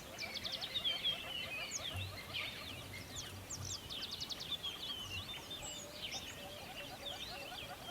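A dense chorus of many songbirds chirping and trilling at once, the calls overlapping without pause, with a lower, rapid repeated chatter running under the higher notes.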